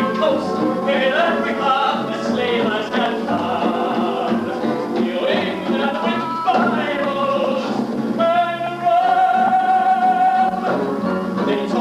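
Voices singing a show tune with a theatre pit orchestra, with one long held note about two-thirds of the way through.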